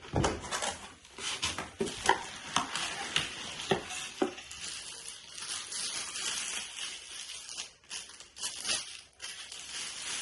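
Packaging being handled and unwrapped: irregular crinkling and rustling, likely plastic wrap, with scattered small knocks and clicks.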